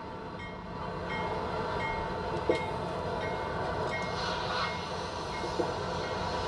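Train running along the track: a steady rumble with a faint high tick repeating about every 0.7 s, and sharp clicks about two and a half seconds in and again near the end.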